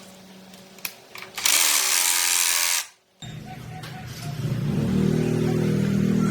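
A loud hiss lasting about a second and a half, then after a brief silence the restored 1979 Honda's engine starts running, building up to a steady run.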